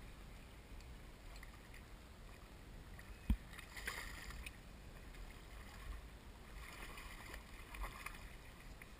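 Faint water noise around a fishing kayak, with a single low thump about three seconds in.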